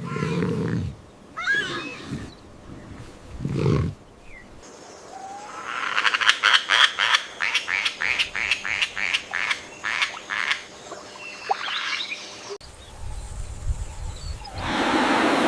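Animal calls in several cut-together clips: a few short low calls, then a fast pulsed trill of about four to five pulses a second lasting several seconds, then a burst of hissing noise near the end.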